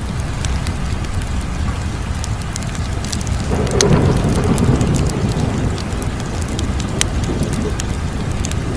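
Crackling fire: scattered sharp pops over a steady low rush. About three and a half seconds in, a louder low rumble swells for about two seconds, then settles back.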